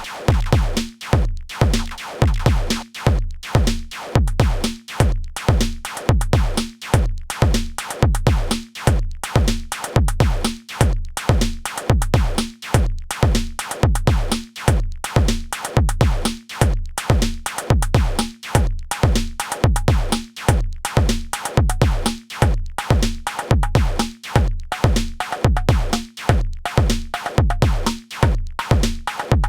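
Modor DR-2 digital drum synthesizer playing a steady electronic beat. Bass drum hits come about two a second, each dropping in pitch, with higher synthesized percussion between them.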